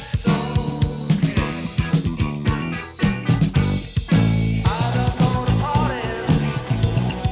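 Instrumental rock music with a steady drum beat and bass. About two-thirds of the way in, a lead line enters with bending, sliding notes.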